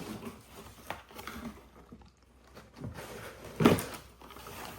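Faint rustling and handling of an opened package of toy monster trucks, with small clicks and one sharp click late on.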